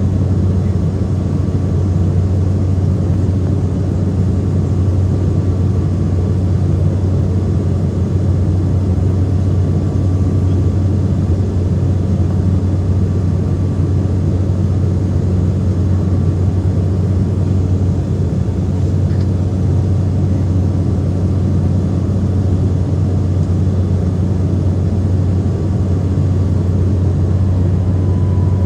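Saab 340's twin turboprop engines and propellers running steadily, a loud even low drone with a faint steady higher whine.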